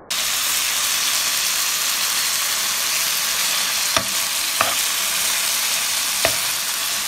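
Chicken hearts sizzling in ghee in a nonstick frying pan, a steady hiss, with a spoon knocking against the pan three times while stirring in the second half.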